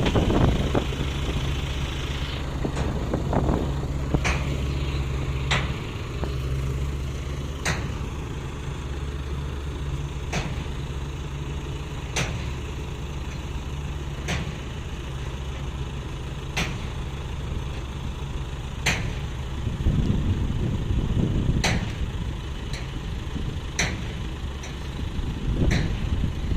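Dump truck engine idling steadily, with a sharp tick repeating about every two seconds. The engine note swells briefly about twenty seconds in.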